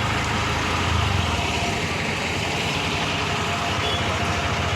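Road traffic noise with a motor vehicle engine running; its low rumble fades about a second and a half in.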